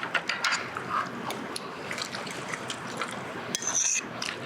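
Eating at a table: a scatter of short clicks and taps from chewing and utensils.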